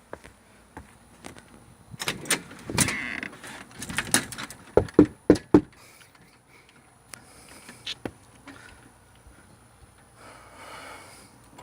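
Four quick knocks on a door about five seconds in, amid scattered clicks and rustling.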